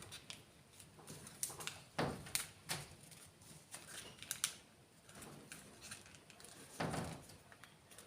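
Origami paper being handled, pinched and creased: soft, scattered rustles and crinkles, with a few louder ones about two seconds in and again near the end.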